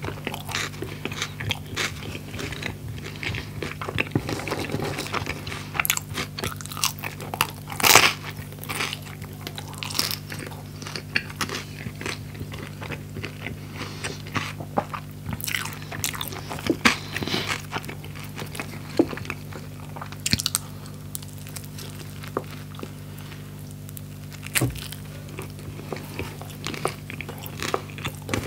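Close-miked chewing of a toasted skepasti pita stuffed with fried chicken and fries: wet chewing with frequent crisp crunches, busiest in the first twenty seconds and sparser after. A faint steady low hum sits underneath.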